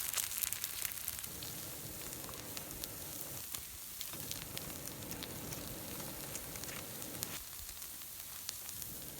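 Food sizzling as it fries in a hot pan: a steady hiss with scattered small pops and crackles.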